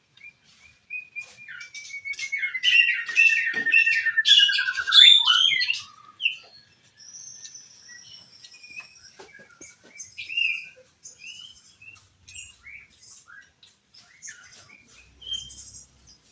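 A songbird singing, loudest for the first six seconds: whistled phrases over a long falling trill, then scattered short chirps and clicks.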